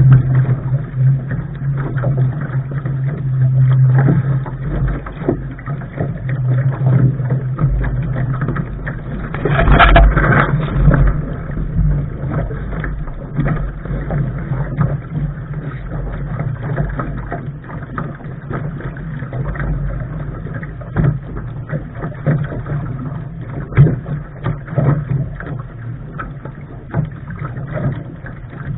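Wind and water noise aboard a Lark sailing dinghy under way: a steady low rushing, with a louder surge about ten seconds in.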